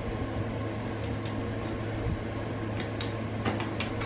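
Steady low mechanical hum, with a few faint short clicks in the second half.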